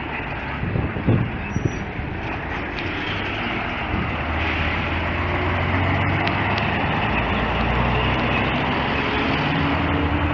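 A 1990s transit bus engine running loudly and steadily, with a few knocks about a second in. It gets a little louder about four seconds in, and a tone rises slowly near the end as the engine picks up.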